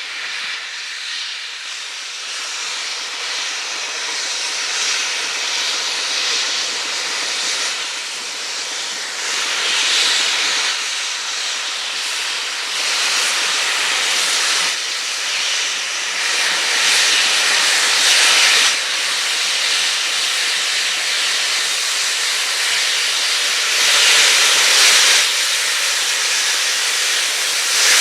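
Steam locomotive hissing steam, with stronger surges every few seconds, getting gradually louder.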